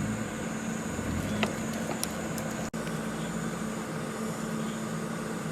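A steady mechanical hum with a constant low tone over an even hiss, cut off for an instant about halfway through.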